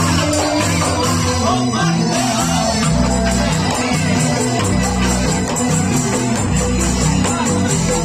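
Balinese joged bumbung music: bamboo xylophones (rindik) playing changing runs of pitched notes over a dense rapid patter of high percussion strokes.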